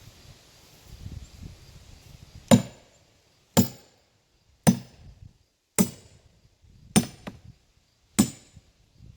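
Sledgehammer driving a steel splitting wedge into a log: six hard metal-on-metal blows about a second apart, each with a short ring.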